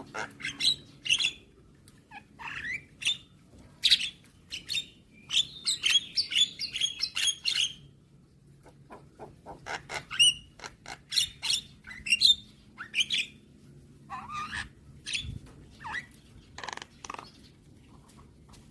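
Javan myna (jalak kebo) calling: a string of short, varied whistles and harsh notes, with a fast run of chattering notes about six seconds in, then a short pause before more scattered calls.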